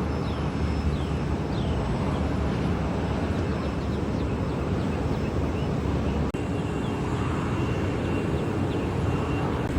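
Steady engine noise from an airliner, heavy in the low end, with a brief dropout about six seconds in.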